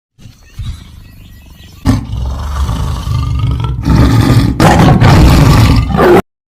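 A big cat roaring: a faint low growl, then from about two seconds in a loud, deep roar in several long heaves that cuts off suddenly.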